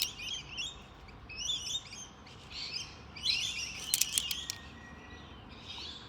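Several wild birds chirping and twittering in repeated bursts, with a few sharp clicks at the start and around four seconds in.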